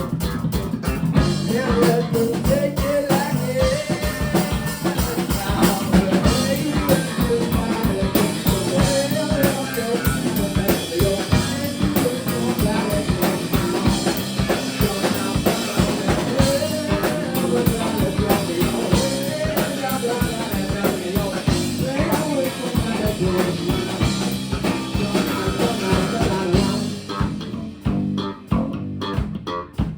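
Live rock band playing: electric guitar, bass guitar and drum kit with steady, fast drumming. Near the end the drums drop out, leaving guitar and bass.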